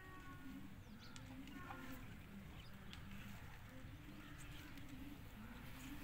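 Faint outdoor ambience: small birds chirping now and then over a low hum that comes and goes.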